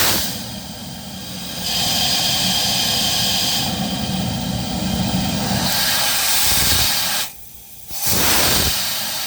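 Air rushing through a Rochester Quadrajet carburetor as a flow bench draws vacuum through it: a loud steady hiss. It grows louder a couple of seconds in, cuts back sharply about seven seconds in, and returns a second later.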